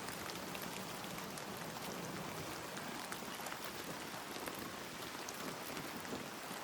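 Rain falling steadily, an even hiss with the patter of individual drops.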